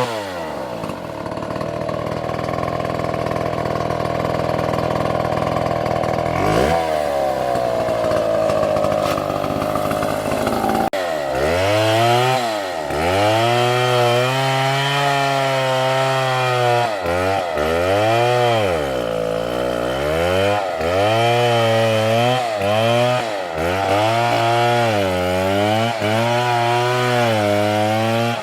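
Chainsaw running at high revs, its pitch holding nearly steady for about eleven seconds. From then on the pitch dips and climbs back again and again as the saw cuts through a palm trunk.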